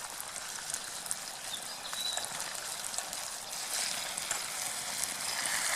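Minced beef sizzling as it browns in a pot over a campfire: a steady hiss dotted with small crackles, swelling slightly near the end.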